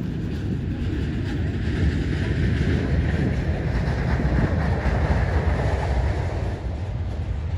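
Jet airliner's engines passing with a heavy rumble and rushing roar. The roar builds to a peak about five seconds in, then eases off.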